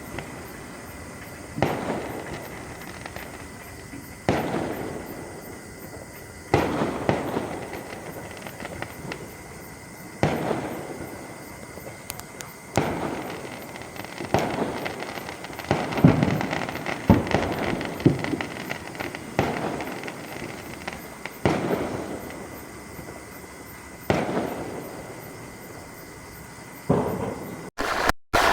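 Sky-shot aerial fireworks going off one after another: a dozen or so sharp bangs about two seconds apart, each fading away in an echo.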